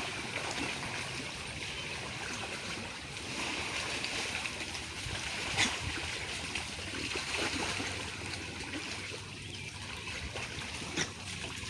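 Fast-flowing stream water rushing steadily, with one sharp tap about halfway through.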